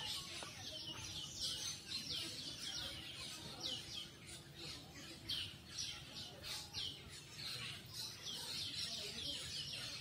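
A flock of black birds chirping in the trees: a busy, unbroken stream of short, high chirps, each falling in pitch, many overlapping.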